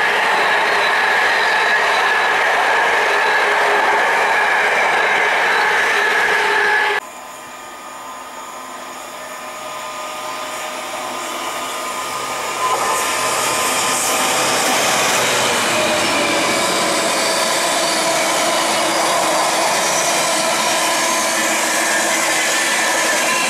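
Container wagons of a freight train rolling past close by, with a steady rush of wheel and rail noise and a thin squealing whine. About seven seconds in the sound cuts to a diesel freight locomotive approaching, its engine hum growing louder. The clatter of its container wagons passing then fills the rest.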